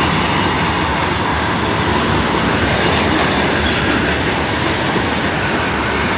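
Train running at speed: a loud, steady rush of rail noise that holds without a break.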